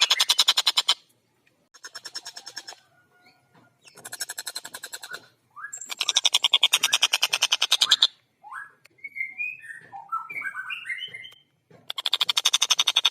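Tengkek buto kingfisher calling in loud bursts of rapid, evenly repeated chattering notes, broken near the middle by a few short, separate gliding notes.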